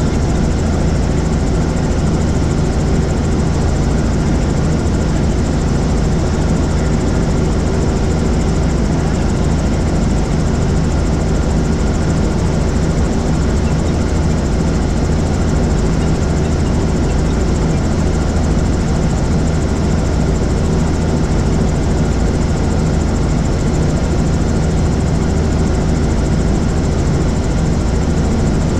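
Helicopter in flight: steady, unchanging engine and rotor noise with a constant low hum.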